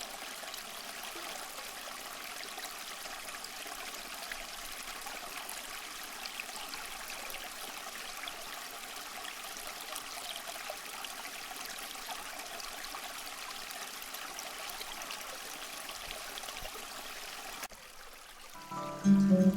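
A stream of running water flowing and trickling steadily. It cuts off near the end, and acoustic guitar music begins.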